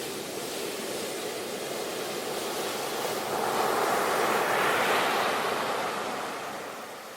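Ocean waves breaking on a shore: a wave swells about three seconds in, peaks, and washes back, fading near the end.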